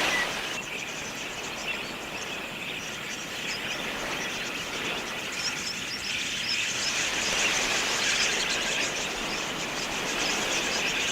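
A flock of wild budgerigars chattering, with many short chirps overlapping continuously over a steady hiss.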